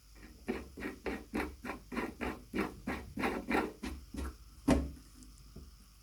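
A run of quick, evenly spaced strokes, about three a second for some four seconds, then a single louder knock.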